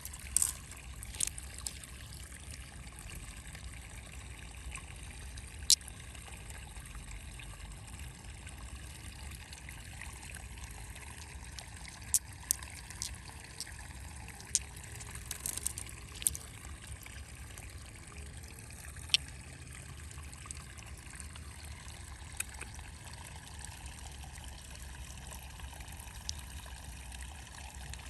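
Water trickling steadily, with scattered sharp clicks and knocks every few seconds.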